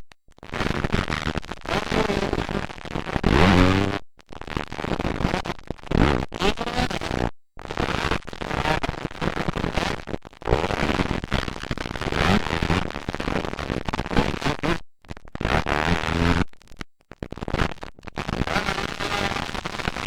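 Motocross dirt bike engines revving hard and passing, loud and distorted on a camcorder microphone, with rising pitch as the throttle opens, about three and a half seconds in and again near the end. The sound drops out completely for an instant several times.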